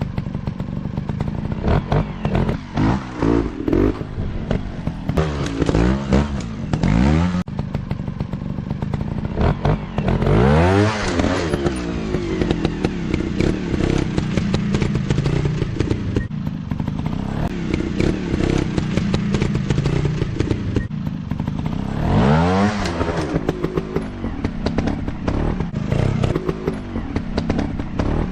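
Dirt bike engines revving up and dropping back over and over, with the pitch swinging widely. There are big surges about ten seconds in and again a little past twenty seconds.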